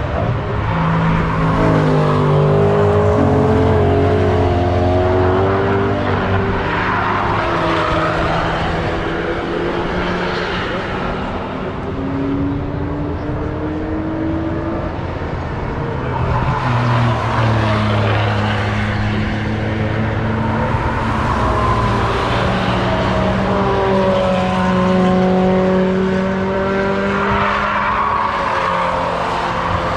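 Several cars driving through a corner of the Nürburgring Nordschleife one after another, their engines overlapping. The engine notes drop as the cars come off the throttle and then climb again as they accelerate out through the gears.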